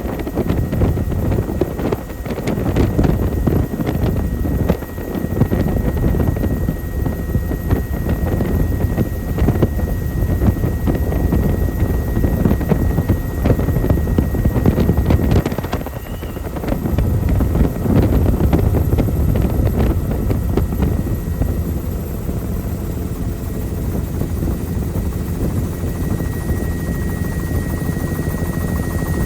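Helicopter in flight, its rotor and engine noise running steadily, with a brief dip in loudness about two-thirds of the way through.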